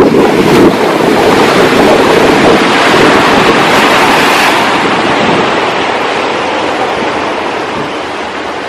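Sea surf washing on the shore, with wind buffeting the microphone. The rush of water swells a few seconds in, then slowly ebbs away toward the end.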